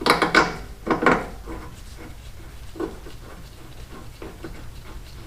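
Metal hand tools clinking and clattering together several times in the first second or so, with one more knock near three seconds in.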